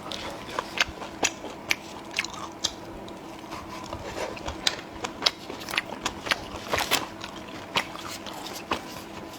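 A person chewing and biting food close to the microphone: irregular sharp wet clicks and crunches, often several a second.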